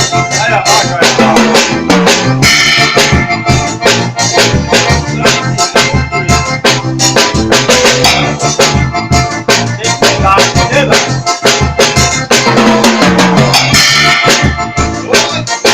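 Drum kit played in a steady groove, kick drum and snare hits, over music with a keyboard part.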